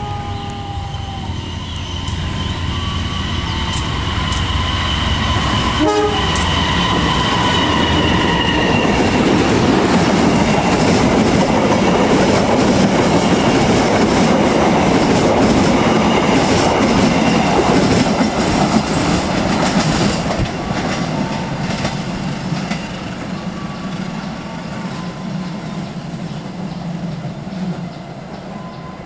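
Parcel freight train running straight through a station without stopping. The diesel locomotive's horn sounds for roughly the first nine seconds as it comes in. The rumble of engine and wagons, with wheels clattering over the rail joints, then builds to its loudest as the wagons go by and fades as the train moves away.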